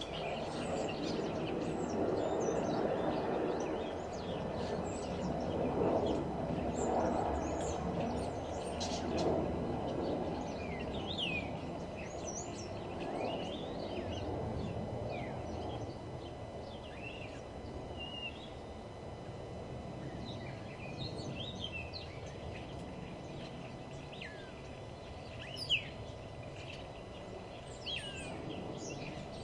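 Several birds singing and chirping in short, quick notes, some sweeping up or down in pitch, over a steady low background rumble. A brief sharp tick stands out near the end.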